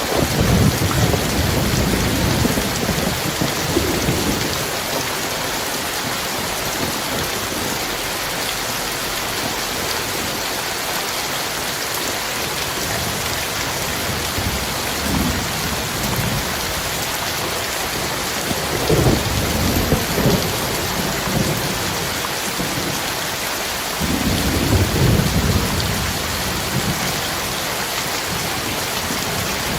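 Heavy rain falling steadily, with rolling thunder rumbling low several times: at the start, around the middle, and again near the end.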